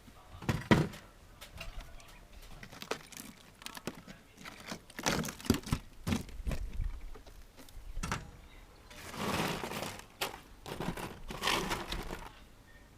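Irregular knocks and clatter with rustling and crinkling, like building material being pulled and handled during demolition, with two longer scraping or rustling stretches a little past halfway.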